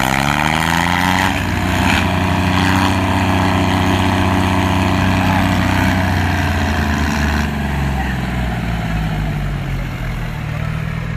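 Tractor engine in third gear revving up over the first second or so and holding at high revs. It eases off and drops in pitch about eight seconds in.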